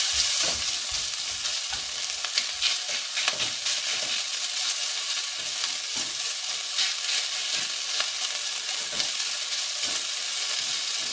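Minced pork sizzling in hot oil in a non-stick pan over medium-high heat, steady, while a spatula breaks it up and stirs it, scraping and tapping against the pan at irregular moments.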